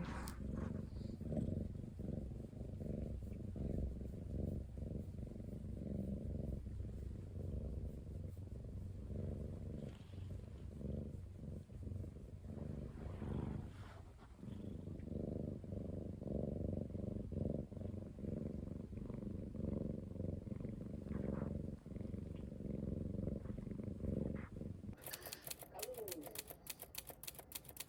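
British Shorthair cat purring close up, a steady low rumble of quick even pulses with a brief pause about halfway. The purring stops near the end, where a quick run of sharp clicks begins.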